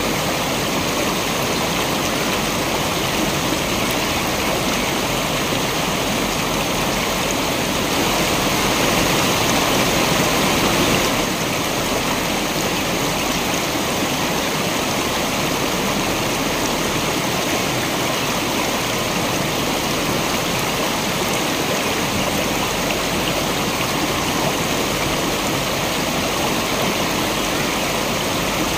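Waterfall: water falling and rushing steadily, briefly a little louder about a third of the way in.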